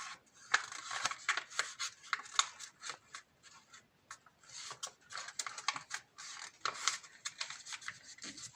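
A sheet of A4 paper crinkling and rustling as it is folded and creased by hand, in a run of small crackles with a short lull a little before the middle.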